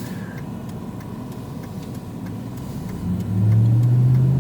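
Steady road and engine noise inside a moving vehicle's cabin. About three seconds in, the engine note comes up louder and climbs slightly as the vehicle accelerates.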